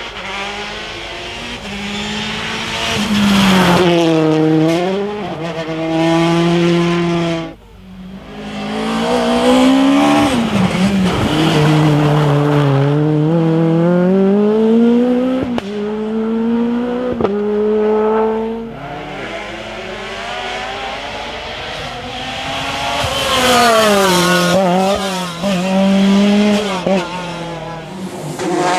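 Rally cars' engines revving hard, the pitch climbing and falling with each gear change and lift, with some tyre squeal. The sound cuts abruptly from one car to the next about 7.5 seconds in, and again near 19 seconds.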